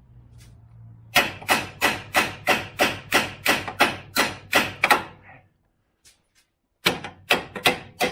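Repeated hammer blows on metal, about three a second, each with a short ringing edge; they stop for almost two seconds and start again near the end.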